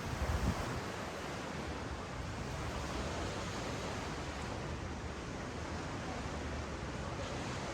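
Ocean surf washing up a sandy beach, a steady, even hiss of breaking and receding waves, with a brief low bump of wind on the microphone about half a second in.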